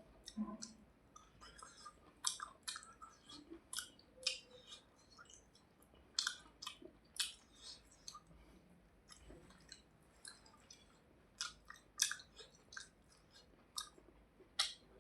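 Close-up mouth sounds of a person eating rice and hilsa fish: wet chewing and lip smacks, heard as irregular short clicks.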